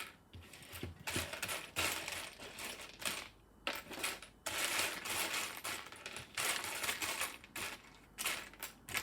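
Small plastic Lego pieces clattering and clicking as they are sorted by hand and dropped into a little tin, in repeated bursts of rattling.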